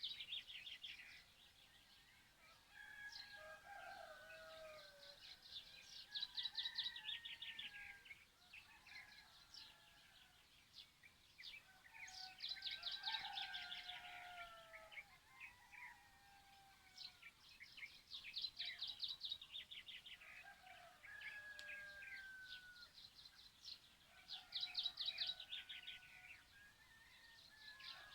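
Small songbirds singing: one repeats a fast, high trilled song about every six seconds, with softer chirps from other birds between.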